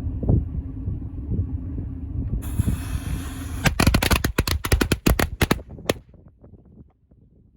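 Firecrackers going off: a hiss starts about two and a half seconds in, then a rapid string of sharp bangs crackles for about two seconds and stops. A low steady hum runs under the first half.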